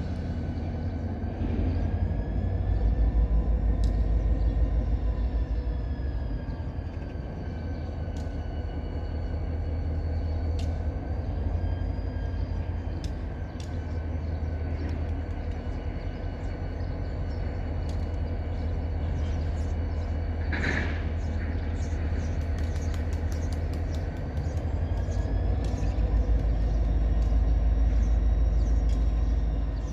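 New England Central diesel locomotive 603 pulling a 12-car ballast train out, a steady heavy low rumble that swells twice, early and near the end, with faint wavering higher tones and a run of sharp clicks in the second half.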